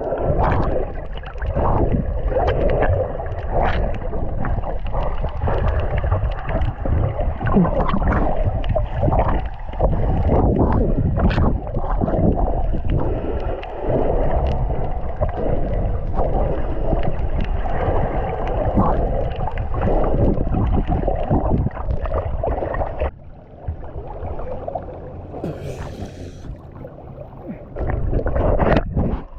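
Jet ski running over the water, its engine noise mixed with the hull slapping the surface. About twenty-three seconds in it drops to a much quieter level, then picks up again near the end.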